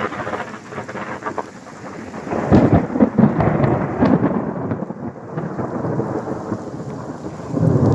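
Thunder rumbling and crackling over steady rain, with a loud swell about two and a half seconds in that rolls off, then builds again near the end.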